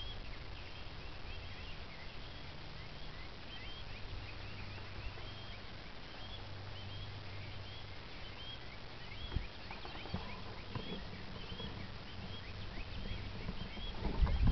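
A small bird chirping over and over in short repeated calls, over a low steady hum. Near the end come a few knocks and rustles.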